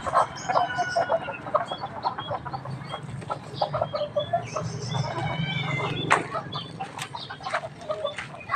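Free-range village chickens clucking in short, repeated calls as they forage, with a run of high chirping calls around the middle.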